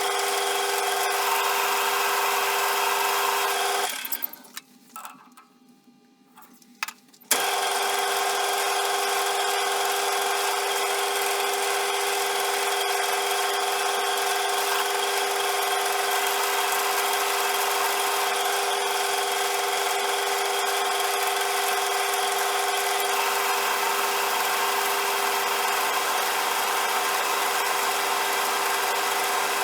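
CJM360 mini metal lathe running with a steady motor and gear whine. The sound fades out about four seconds in, a few faint clicks are heard, then it comes back abruptly about three seconds later and runs on steadily.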